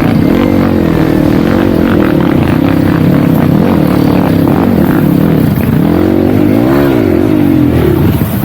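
Dirt bike engine running under constantly changing throttle, its pitch rising and falling, with a quick rev up and back down about seven seconds in.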